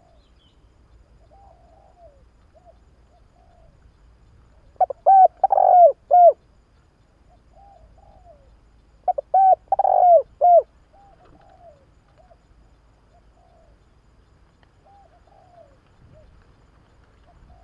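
Spotted dove cooing: two loud phrases of several low, arched coos each, about four seconds apart, with quieter short calls in between.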